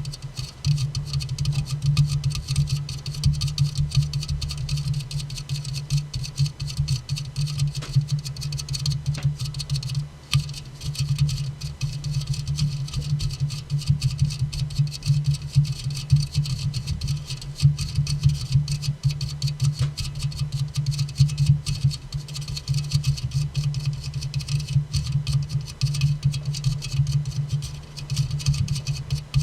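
Rapid, continuous tapping on an aluminium soda can, a dense patter of light taps that lets up briefly about ten seconds in and again near the end.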